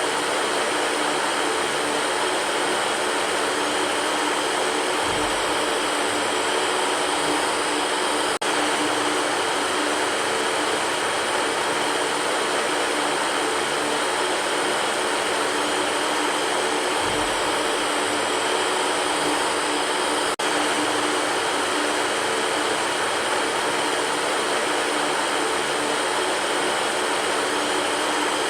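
Electric fan running steadily: an even rush of air with a faint underlying hum. The sound drops out for an instant twice.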